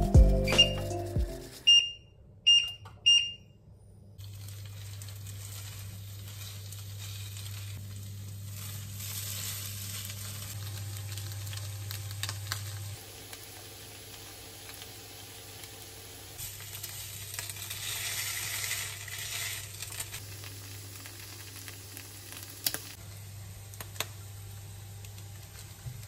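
Three short high beeps from a glass-top cooktop's touch controls, then shredded-potato cakes sizzling in oil in a non-stick frying pan, the sizzle swelling and fading over a steady low hum from the hob. A few light clicks come near the end.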